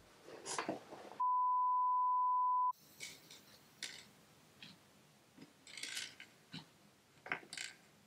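A steady one-tone bleep at about 1 kHz, lasting about a second and a half with everything else muted under it, edited into the sound track like a censor bleep. Faint scattered clicks and rustles come before and after it.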